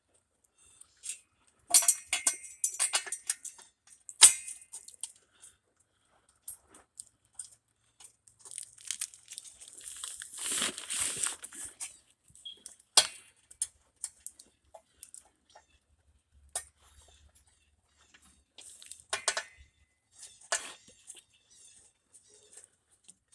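Clicks, knocks and scraping of exhaust parts and hardware being handled while the donut gasket and pipe are fitted, with a longer rustling scrape about ten seconds in.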